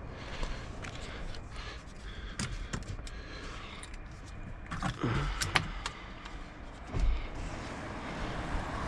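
Light clicks and rattles of hands working on parts inside an SUV door, with a couple of louder knocks about five and seven seconds in.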